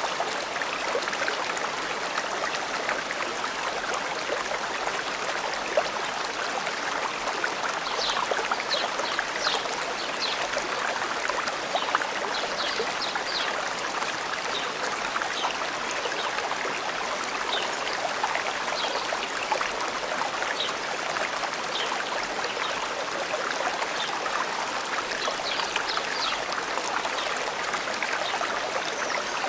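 A forest stream flowing steadily, with small birds chirping in short high notes in clusters about a third of the way in and again near the end.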